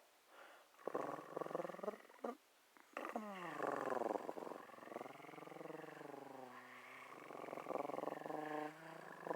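A person's voice making drawn-out wordless vocal sounds: a short one about a second in, then a long one from about three seconds in that slides down and wavers in pitch.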